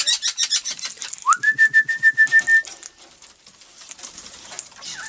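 A quick run of sharp clicks and taps, then a whistled note about a second in that rises quickly and is held at one pitch for over a second, with a slight pulsing.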